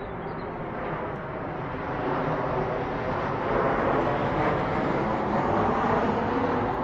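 Steady engine-and-motion rumble of a passing vehicle, swelling louder about two seconds in.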